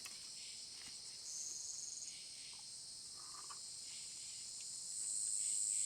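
Steady high-pitched chorus of rainforest insects, with a short pulsing buzz about a second in and a louder high buzz swelling in near the end.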